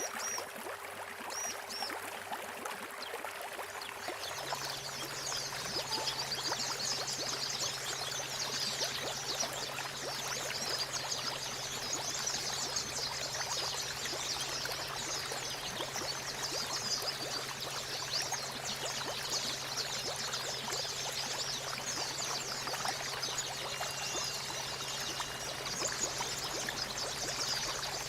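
Running water with a dense, high twittering of white-eyes (pleci) over it. The chatter fills in about four seconds in, together with a steady low hum.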